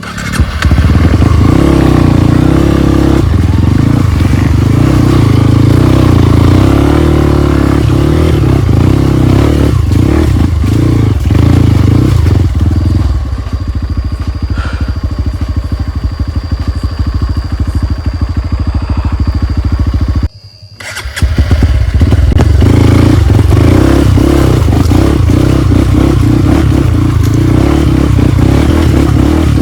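Trail motorcycle engine running loud and rising and falling in revs. It settles to a quieter, steadier note for several seconds, the sound drops out briefly about twenty seconds in, and the engine then comes back loud.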